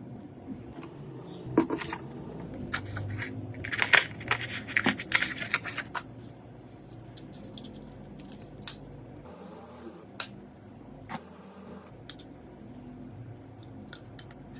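Small sharp clicks, taps and scraping from hand work on a Meitu V6 Plus smartphone during its restoration, busiest in the first half, then a few single clicks further apart.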